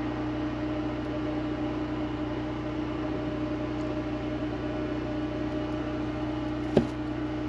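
Steady hum of a generator running, with a constant low drone. There is a single short click near the end.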